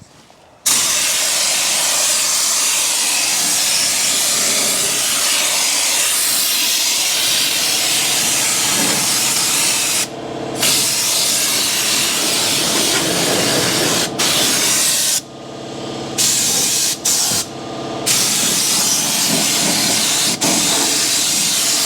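Air-powered undercoating spray gun hissing hard as it blasts oil through its plain nozzle onto a truck's frame and underside. The spray cuts out for short moments several times in the second half as the trigger is let go.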